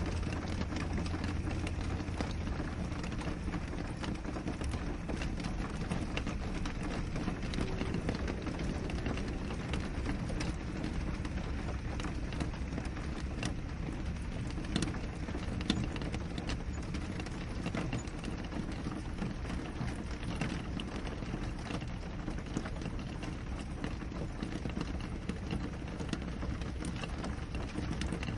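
Steady rain falling on a window pane: an even wash of rain with many small drop ticks on the glass, and a couple of slightly louder drop hits about halfway through.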